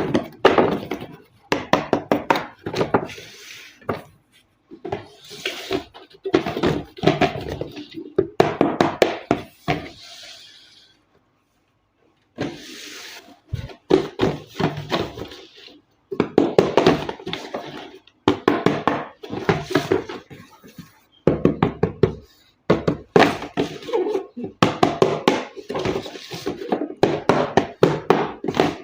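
Toy packaging being handled and unpacked: a run of irregular knocks, thunks and rustling of cardboard and plastic, with a short pause about halfway.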